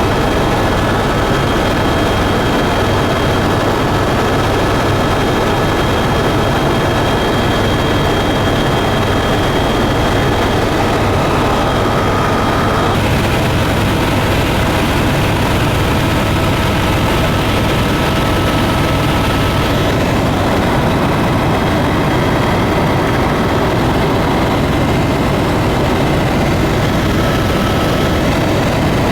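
Steady drone of a tour airplane's engines in flight, with a few steady tones over the noise. The sound changes abruptly twice partway through, as if cut.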